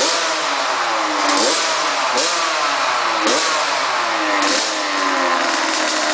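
Cobra mini moto's 50cc two-stroke engine being revved in short throttle blips, about five in a row. Each time the pitch jumps up quickly and then falls away as the revs drop.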